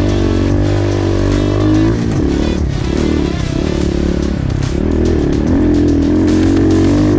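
Side-by-side UTV engine running under throttle on a trail, its pitch rising and falling as the driver gets on and off the gas, with background music over it.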